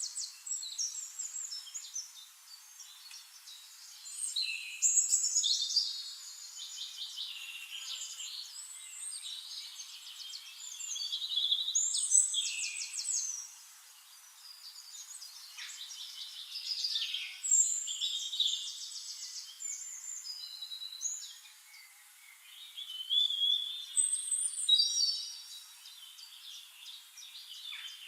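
Several songbirds singing at once: overlapping high, fast trills and chirping phrases, in louder bursts every few seconds.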